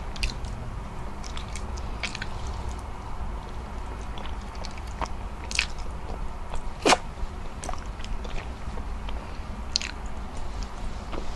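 Close-miked eating sounds: chewing of rice with scattered wet mouth clicks and lip smacks as fingers are licked. The loudest is one sharp smack about seven seconds in.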